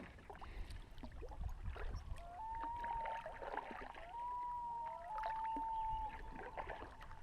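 Common loons wailing: long, held whistled calls, each sliding up briefly and then holding level, starting about two seconds in and repeating several times, over light knocks of paddle on kayak. The calling is an alarm, which the kayakers put down to a big bird like an eagle coming around.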